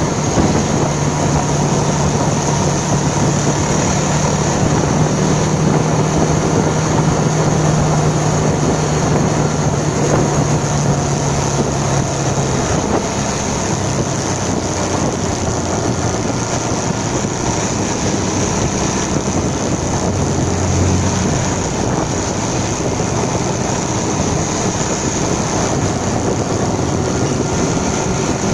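Motorcycle engine running while riding, with wind rushing over the microphone. The engine note drops to a lower pitch about twelve seconds in.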